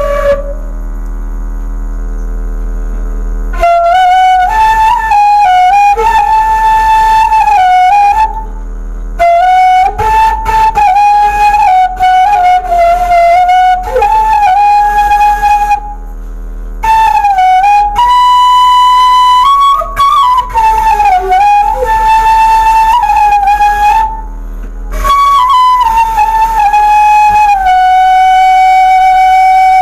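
Bamboo suling (Indonesian end-blown flute) played solo by a beginner: a simple melody in four phrases with short breaths between them, with a higher held note midway and a long held note near the end.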